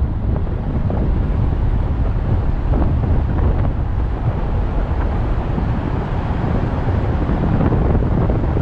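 Wind buffeting the microphone: a loud, steady, rumbling roar with no clear pitch.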